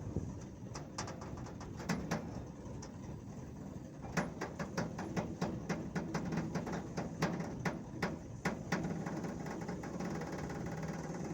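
A quick, irregular run of sharp knocks and clicks, densest in the middle and stopping near the end, over a steady low engine-like hum.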